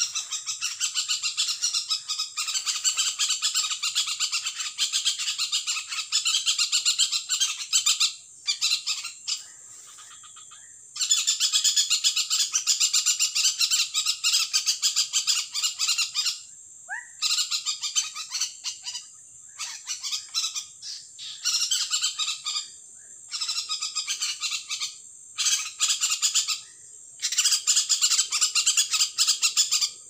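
A bird caught in a mist net, screeching harshly and rapidly in long bouts of several seconds with short breaks; a distress racket from a bird the netter calls the noisiest he has caught.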